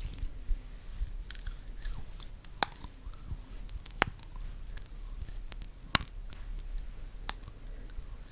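Close-up ASMR hand sounds: skin rubbing and rustling right at the microphone, with four sharp clicks spread through.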